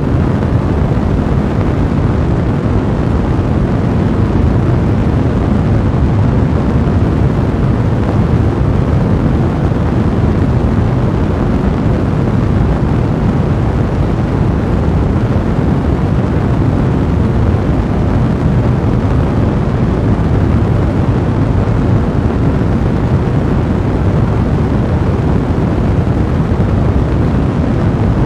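Blazing fire making a steady, dense low rumble, with no separate crackles standing out.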